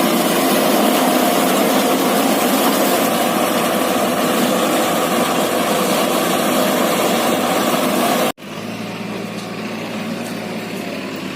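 Eicher tractor's engine running steadily and loudly. About eight seconds in, the sound cuts off abruptly to a quieter, lower engine hum.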